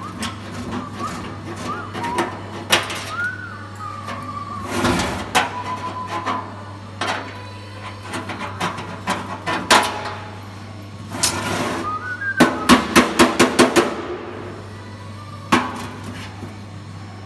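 Hammer knocks and taps on metal, irregular at first, then a quick run of about eight strikes a little past the middle, over a steady electrical hum. A person whistles in snatches between the blows.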